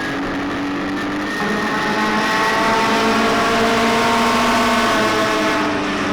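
Midget race cars running laps on the track, with a steady high engine note that grows louder about a second and a half in as cars come close, then eases off near the end.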